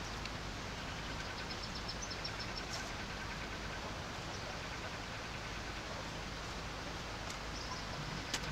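Steady rain falling, an even hiss, with a short run of faint high chirps about two seconds in and a sharp click near the end.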